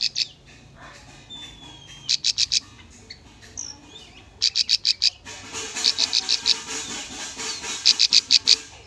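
Bar-winged prinia (ciblek) song: short runs of rapid, sharp high chip notes, repeated in bursts of about half a second, with background hiss from about five seconds in.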